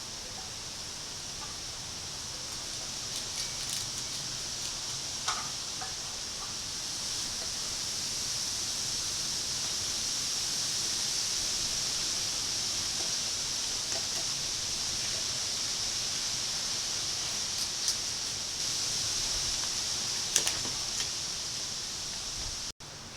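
Steady high-pitched hiss with a few faint clicks and taps scattered through it, and a momentary cut-out near the end.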